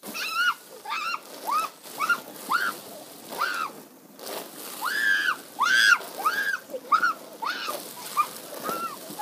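A child shrieking in short, high-pitched squeals, about two a second, under a hose's water spray hissing and splashing onto the cardboard box fort.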